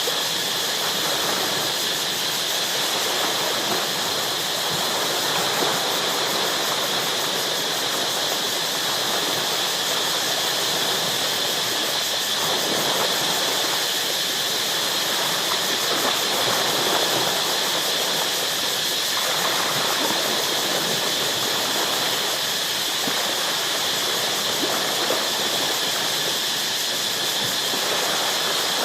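Ocean waves washing and breaking against shoreline rocks, swelling and falling back every few seconds, over a steady high-pitched drone.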